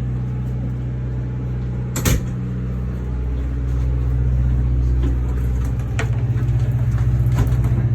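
A motor running with a steady low hum, with a sharp knock about two seconds in and a few fainter clicks later. In the last two seconds the hum takes on a fast pulsing beat.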